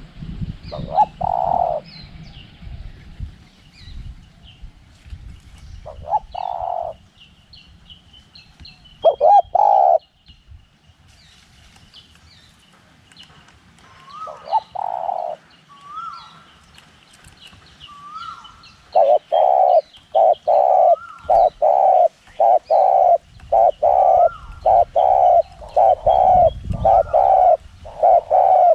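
Spotted dove cooing: a few separate coos early on, then from about two-thirds of the way in a fast run of short coos, about two a second. Small birds chirp faintly throughout, and gusts of wind rumble near the start and again near the end.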